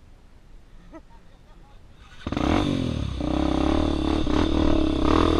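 Low background for about two seconds, then a dirt bike engine comes in suddenly and loud, running steadily.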